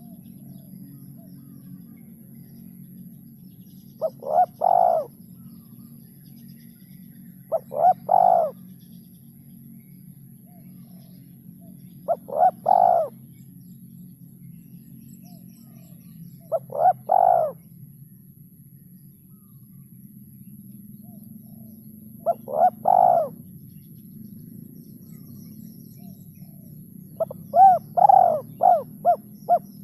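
Male spotted dove (tekukur) cooing. Five short phrases come about every four to five seconds, each a quick lead-in note followed by a longer coo, then a longer run of four or five coos near the end. A steady faint low hum runs underneath.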